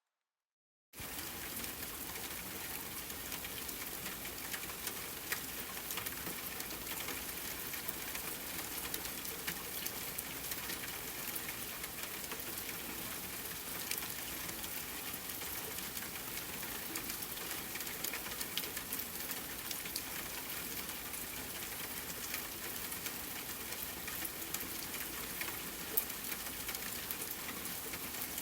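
Steady rain falling, an even hiss scattered with many small raindrop ticks, starting abruptly about a second in after silence.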